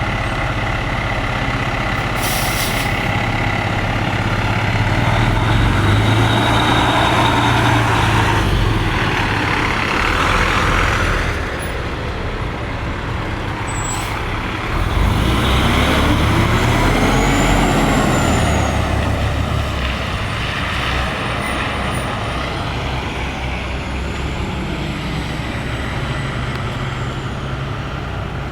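A motor vehicle running steadily, with a low rumble, its pitch rising and then falling again about fifteen to nineteen seconds in.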